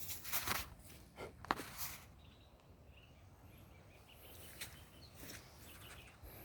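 Quiet outdoor ambience: a few rustling noises in the first two seconds, then faint short bird chirps over a low background.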